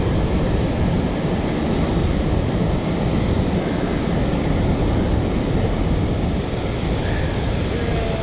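Water rushing through the released gates of a dam spillway in a loud, steady, unbroken rush.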